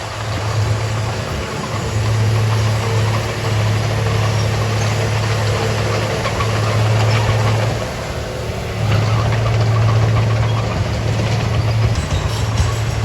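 Komatsu D31A bulldozer's diesel engine working under changing load, its low hum swelling and easing every couple of seconds, with a brief dip about eight seconds in, and light clatter over it.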